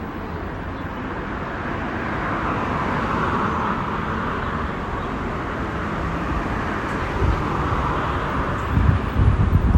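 Outdoor road noise: a steady rush that swells and fades like a vehicle passing. Near the end, low gusty wind buffeting on the microphone grows louder.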